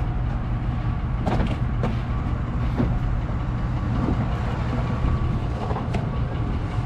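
Steady low rumble of a car driving, heard from inside the cabin, with a few faint knocks.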